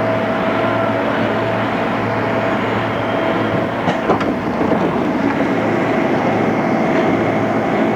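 Running sound heard inside a JR East 211 series electric train under way: a steady rumble with a steady whine over it, and a short clatter of clicks about four seconds in.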